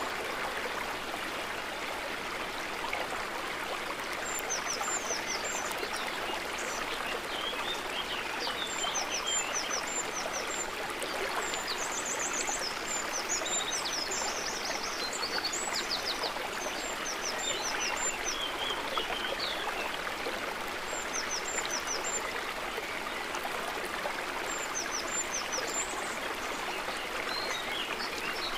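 Steady babbling and trickling of water, with clusters of short, high chirping calls every few seconds.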